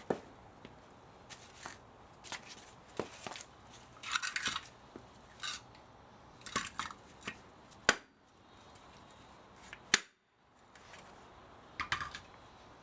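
Hand tools clicking and scraping against the metal parts of an old spa motor as it is dismantled for scrap. The sounds come in short, scattered bursts, with two sharper, louder clicks about eight and ten seconds in.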